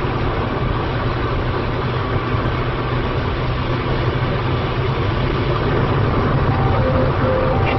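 Steady low vehicle rumble with a noisy hiss, holding at an even level throughout.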